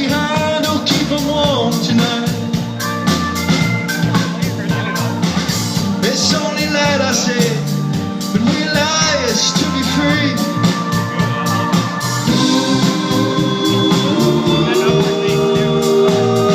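A live band playing an instrumental passage with a steady drum beat and organ, with no lead vocal.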